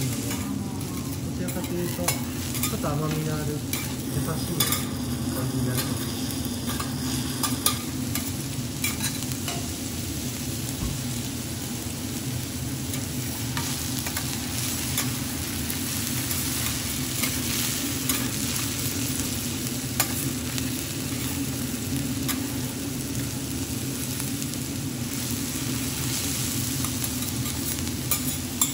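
Chopped onion and minced garlic sizzling in fat on a flat steel teppan griddle. A metal spatula scrapes and taps the griddle now and then as it pushes them around.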